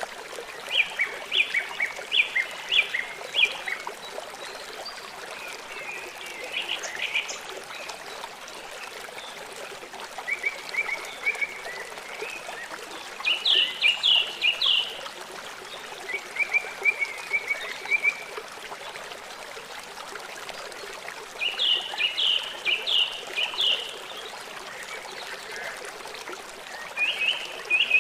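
Songbird singing short phrases of quick repeated notes, about seven phrases spaced a few seconds apart, over a steady trickle of running water.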